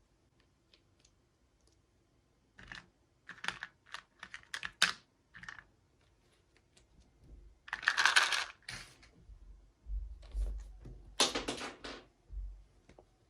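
Hands handling plastic toy packaging and small parts: a run of quick clicks and taps, then two longer rustles with a few dull thumps.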